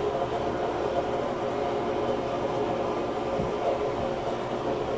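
Steady mechanical hum with several held tones, unbroken throughout.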